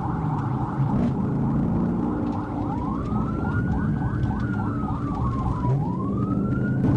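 Police car siren wailing in slow rising and falling sweeps, twice, with a rapid yelping tone overlapping it, over the patrol car's engine and road noise during a pursuit.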